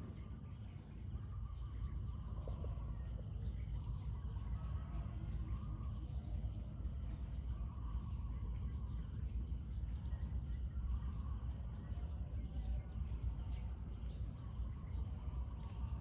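Waterfowl (geese and ducks) calling faintly and intermittently, a call every second or two, over a steady high insect chorus and a continuous low rumble.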